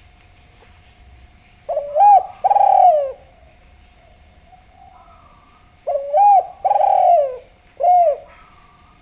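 Spotted dove (derkuku) cooing: two loud phrases of low, arching coos, the first about two seconds in and the second, with an extra final note, about six seconds in. Fainter coos are heard between and after them.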